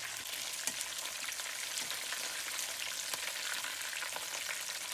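Perch fillets coated in crushed potato chips frying in hot oil: a steady sizzle with many quick crackling, spattering pops.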